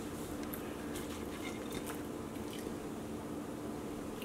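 Quiet chewing and biting of fast food close to the microphone, with faint scattered small clicks over a steady low hum.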